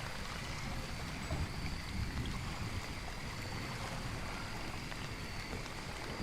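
Steady rain-and-nature ambience: an even hiss of rain with a low rumble underneath.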